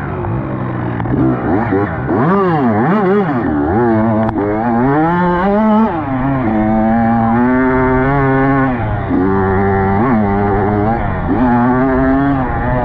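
Dirt bike engine revving hard, its pitch rising and falling as the throttle is worked for the first half. It then holds a higher, steadier pitch with a few brief drops, as when riding along and shifting.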